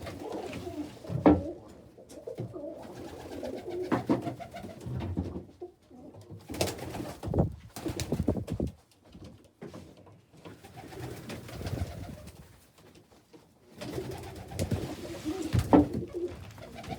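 Domestic pigeons cooing, with a few sharp knocks and clatters over them, the loudest about a second in and near the end.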